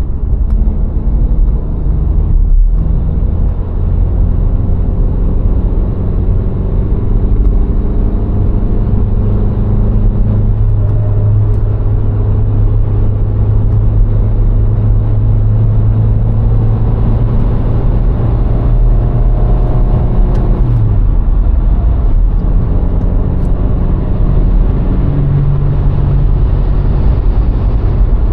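VW Golf IV's 1.6 petrol four-cylinder engine running steadily at road speed, under a constant rumble of tyre and road noise. Its engine note drops suddenly about two-thirds of the way through, then settles at a new steady pitch.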